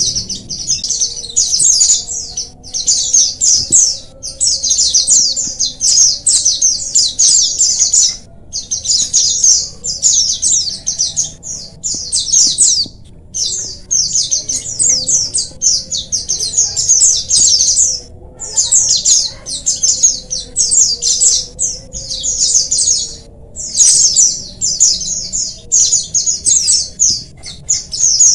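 A flock of white-eyes (pleci, Zosterops) chirping and twittering together in a dense chatter of rapid high calls, broken by short pauses every few seconds.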